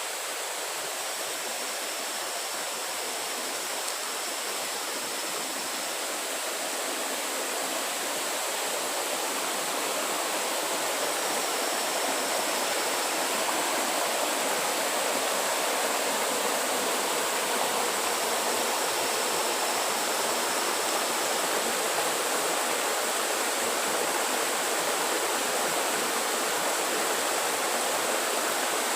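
Steady rushing of flowing water, an even hiss with no distinct splashes, growing slightly louder over the first ten seconds or so. A faint steady high tone sits above it.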